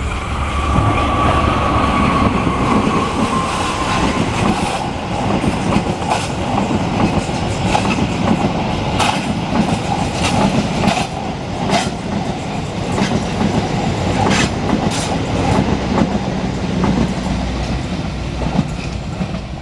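A train passing on the rails: a steady heavy rumble, with the wheels clicking sharply over the rail joints again and again.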